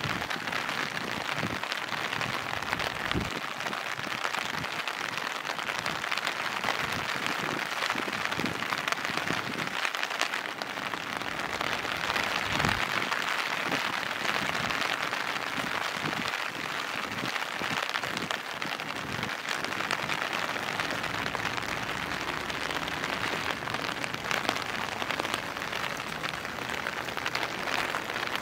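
Steady rain falling, with scattered louder drips and taps.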